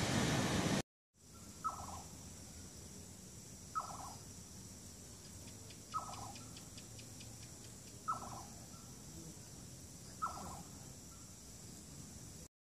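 A bird repeating a short call that falls in pitch, five times, about every two seconds, over a faint steady background. The first second is wind and surf noise, which cuts off abruptly.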